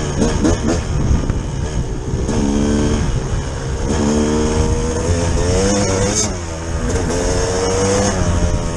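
A vehicle engine running under load, its pitch holding and then climbing in several pulls, over a steady low rumble.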